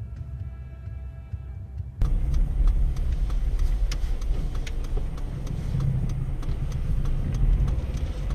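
A car driving, its engine and road noise a steady low rumble with scattered light clicks, cutting in abruptly about two seconds in after a short stretch of faint music.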